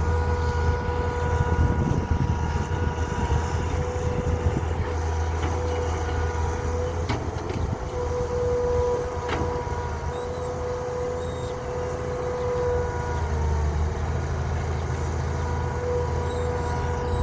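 A truck's engine running steadily with a low drone and a steady whine over it. Two sharp clicks come about seven and nine seconds in.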